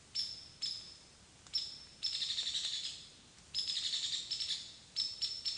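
Hairy woodpecker calling: a few sharp, high single calls, then two rapid rattling runs of about ten notes a second, each about a second long.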